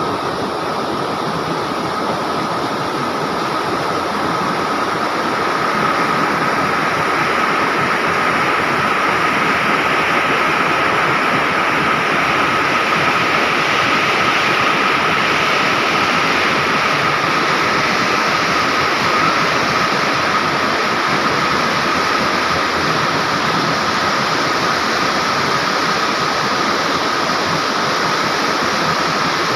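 River water rushing in a steady, even noise, with a thin steady high tone running beneath it. It grows slightly louder about six seconds in.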